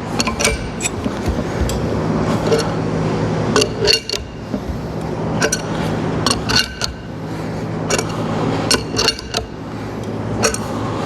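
Adjustable (crescent) wrench clinking against the steel fittings of a paint pump's fluid section as it is cinched tight: a run of sharp, irregular metallic clicks and clinks, over a steady low hum.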